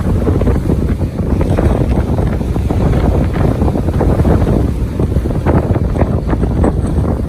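Strong gusting wind blasting an iPhone's microphone: a heavy, fluctuating rumble that swells and dips with the gusts.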